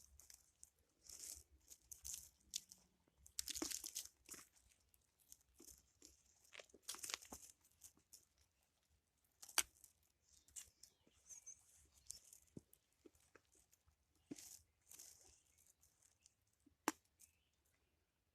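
Faint, irregular crunching and rustling of footsteps, with a few sharp clicks.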